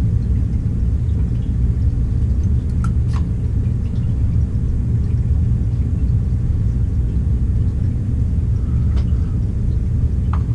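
Steady low rumble, with a couple of faint brief clicks about three seconds in and near the end.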